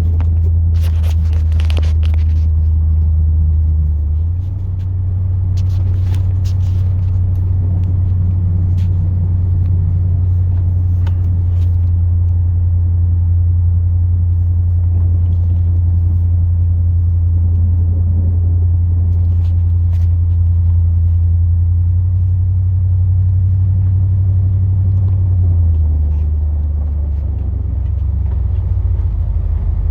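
Chevrolet 8.1-litre big-block V8 droning steadily, heard from inside the plow truck's cab while driving; its pitch steps up about four seconds in and drops back near the end. A few sharp clicks in the first couple of seconds.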